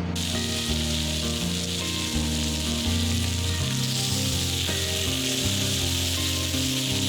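Food sizzling steadily on a hot pan or grill, the hiss cutting in suddenly at the start, over background music.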